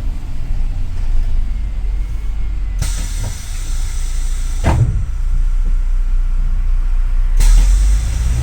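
Double-decker city bus with a steady low engine rumble, heard inside the bus. Compressed air hisses suddenly about three seconds in and again near the end, with a knock between the two hisses.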